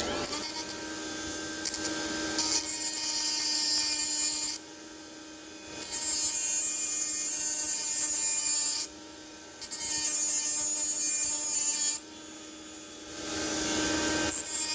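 A small electric grinder runs with a steady hum while a contaminated tungsten electrode is pressed against it in four stretches of about two to three seconds each, giving a hissing grind each time. The tungsten is being ground clean after it was dipped into the weld pool.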